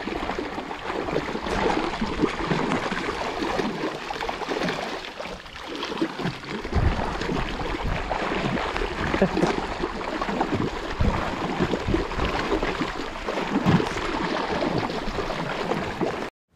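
Water rushing and splashing against the hull of a small boat moving over choppy river water, with gusts of wind buffeting the microphone. The sound cuts off suddenly near the end.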